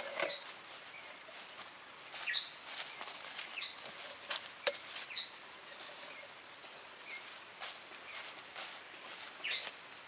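Birds chirping now and then over a steady outdoor hiss, with a few light knocks and rustles as bamboo poles are laid on the grass; the sharpest knock comes about halfway through.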